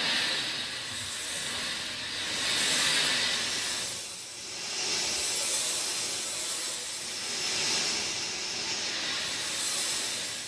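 Steady rain, an even hiss that swells and eases every few seconds.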